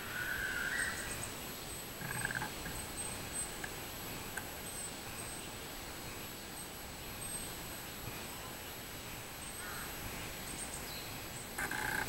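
A few short bird calls: the loudest just after the start, another about two seconds in and one near the end, over an even outdoor background hiss.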